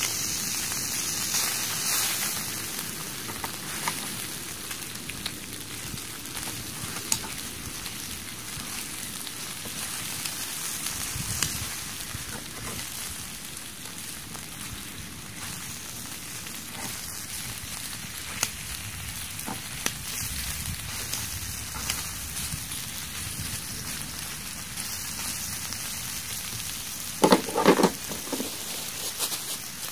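Pork belly sizzling on a hot stone slab over a wood fire: a steady frying hiss with small pops and crackles. A brief louder sound comes near the end.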